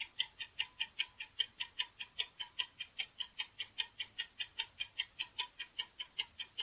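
Clock-like ticking sound effect, an even run of sharp ticks at about five a second, counting down the answer time of a quiz.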